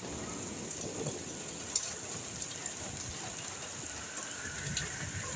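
Heavy rain pouring and splashing on surfaces as a steady hiss, with a few sharp drop ticks.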